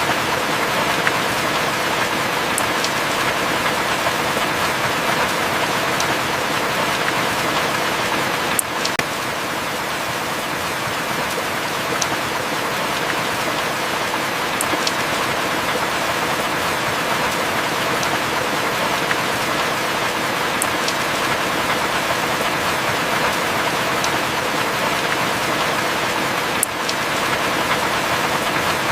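Heavy rain falling steadily, with sharp drip ticks now and then.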